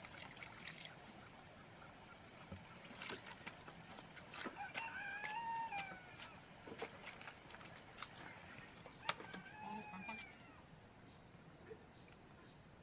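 Faint rooster crowing twice, a long crow about five seconds in and a shorter one near ten seconds. Behind it a high buzz comes in repeated spells, with scattered clicks and knocks and one sharp knock around nine seconds.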